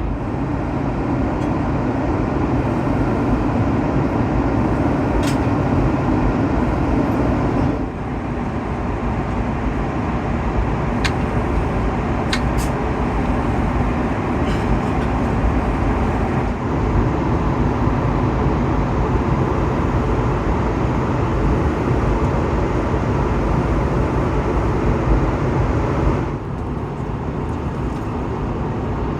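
Steady cabin noise of an Airbus A330-200 airliner: engine and airflow rumble heard from inside the cabin, with a few faint clicks. It changes abruptly three times, as between separately recorded clips.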